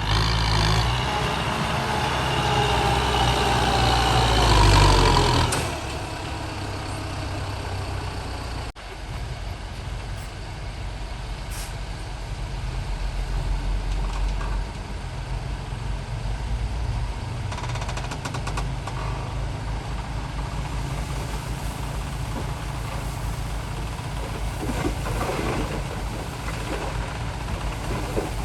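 Dump truck engine revving with a rising whine for about the first five seconds, then running steadily at a low rumble.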